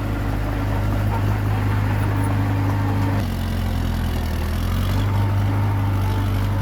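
Komatsu D21P bulldozer's diesel engine running steadily; its pitch drops a little about three seconds in and holds lower.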